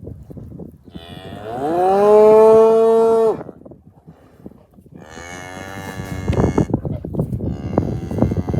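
Red Angus cows mooing: one long loud moo that rises in pitch and then holds, followed by two more calls near the end, the last still going as the sound ends. Between the later calls come crunching knocks of hooves in snow.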